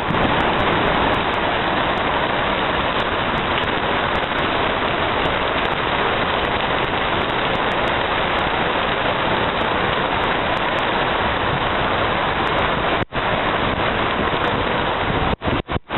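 Rain falling steadily, a dense even hiss that breaks off for an instant about thirteen seconds in.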